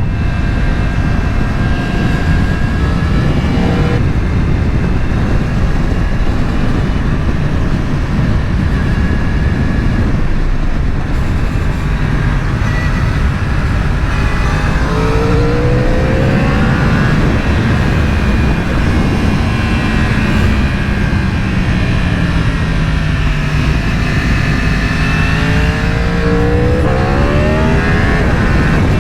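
Sport motorcycle engine under way with wind and road noise; the engine note climbs as it accelerates about halfway through, sinks for several seconds, then climbs again near the end.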